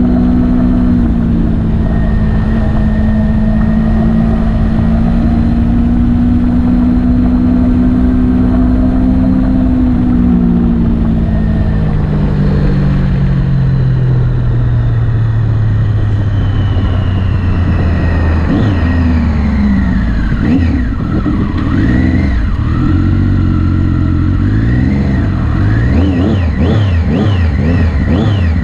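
Motorcycle engine running under way. It holds a steady pitch at first, drops as the bike slows about ten seconds in, then revs up and down quickly and repeatedly through the last third.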